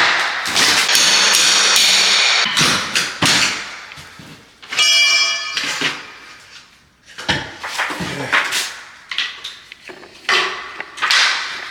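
Water-damaged drywall being knocked and torn out: repeated knocks and crunches, with a short ringing tone about five seconds in.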